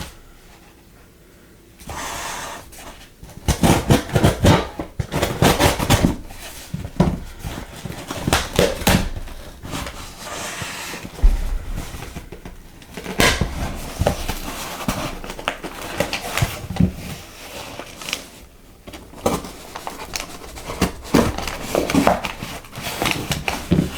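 Packaging and small plastic items being handled: irregular crinkling and rustling with many sharp clicks and light clatters, starting about two seconds in.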